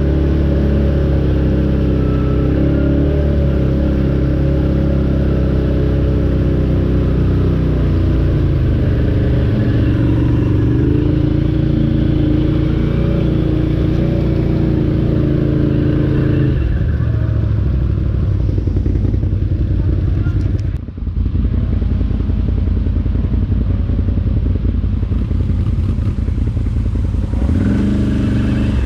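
ATV engine running under way, its pitch rising and falling with the throttle. About two-thirds of the way through, the even hum turns rougher, with a brief drop in level.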